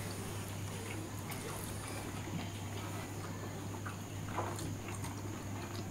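Two people chewing meat with their mouths close to the microphone, a few faint wet smacks over a steady low hum.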